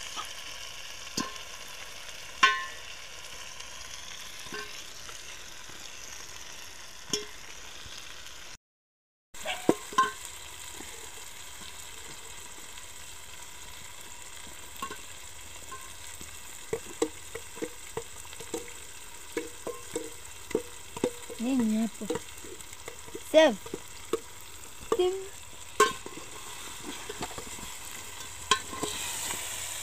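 Tomato-and-onion sauce frying in oil in an aluminium pot, sizzling steadily, as fried chicken pieces are added and stirred in. A metal spoon clinks and scrapes against the pot, mostly in the second half. The sound cuts out briefly about nine seconds in.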